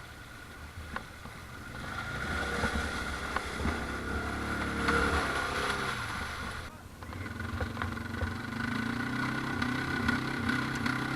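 ATV engine revving hard under load, pushing to get through. The engine note rises and falls, drops off briefly about seven seconds in, then climbs again towards the end.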